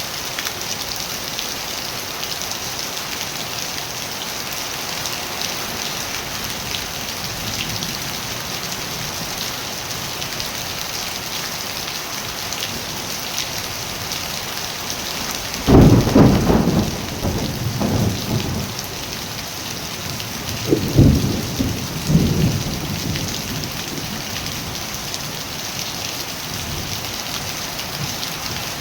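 Steady rain falling, with thunder rumbling twice past the middle: a louder peal and a second, shorter one a few seconds later.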